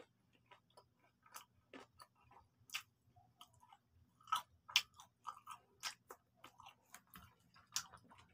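A person chewing fried chicken close to the microphone: irregular wet smacks and crunchy clicks, several a second, louder in the second half.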